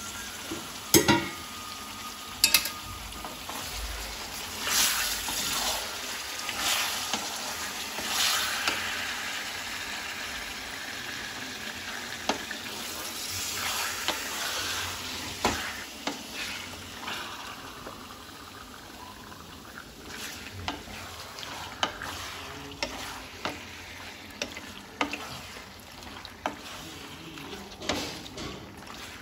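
Chicken pieces frying in a kadai with a steady sizzle, while a spatula scrapes and knocks against the pan now and then as the chicken is stirred into the masala paste.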